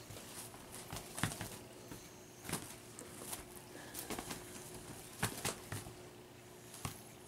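A Bengal kitten scampering and playing, with scattered light taps, knocks and rustles at irregular intervals and a faint steady hum underneath.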